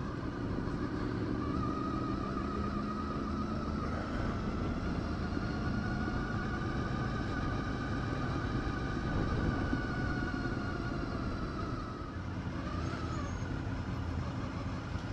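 Motorcycle engine running while under way, with a low wind rumble; the engine note climbs slowly and eases off near the end.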